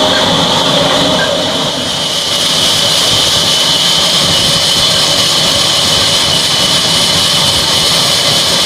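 Old 22 hp diesel engine running steadily, a fast even chugging with a steady high hiss above it.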